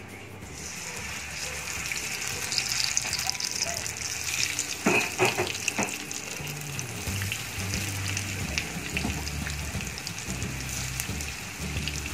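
Breaded fish fillet strips sizzling as they deep-fry in hot oil in a pan. The sizzle starts about half a second in, as the pieces go into the oil. There are a few sharp clicks a little before halfway.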